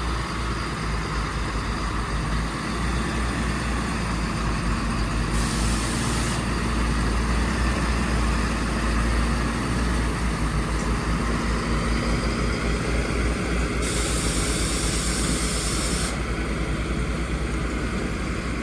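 Diesel engines of a farm tractor and a loaded grain lorry running steadily under load as the tractor tows the lorry out of deep mud. Twice a burst of hiss cuts in over the engines, once for about a second and later for about two seconds.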